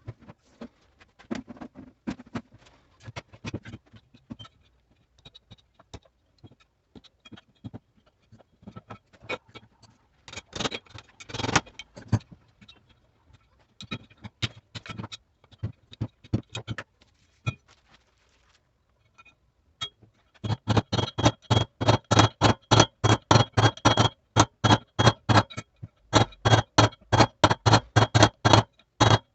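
Hand tools working on a washing machine's mechanism. It starts with scattered metal clicks and knocks. About two-thirds of the way through, a loud, fast, even run of sharp metallic strikes begins, several a second.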